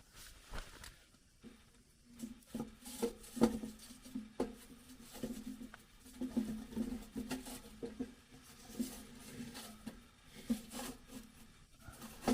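Irregular clicks, taps and light knocks as a small camping wood stove is tended and sawdust fuel briquettes are put into its firebox, starting about two seconds in.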